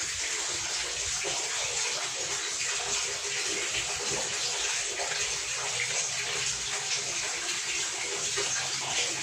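Water pouring steadily out of a washing machine's clogged drain as it is opened, a continuous even rush of water draining from the tub.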